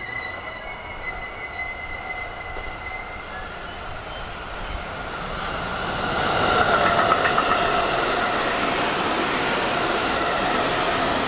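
Electric commuter train approaching and running past on a near track, its wheel-and-rail noise building up from about five seconds in and then staying loud. At the start, faint high-pitched whines fade away.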